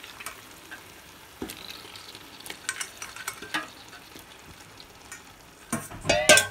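Onion-tomato masala sizzling in a metal pot as raw chicken pieces are dropped in by hand, with scattered soft plops and clicks. A louder clatter comes near the end.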